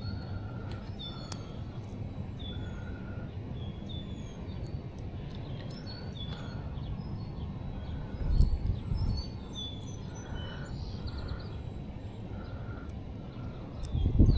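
Birds calling with short, repeated chirps over a steady low rumble, with a louder low-pitched bump about eight seconds in and again near the end.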